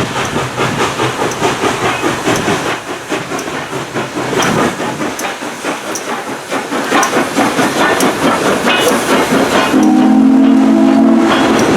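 Southern 630, a 2-8-0 steam locomotive, working under power with rhythmic exhaust chuffs and steam hiss, growing louder as it draws closer. Near the end its steam whistle sounds one blast of about a second and a half.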